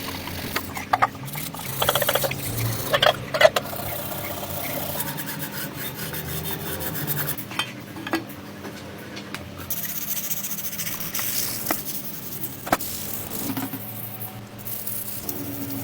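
Hand rubbing and scraping on engine parts, a steady rasping broken by irregular small clicks and knocks, busiest in the first few seconds.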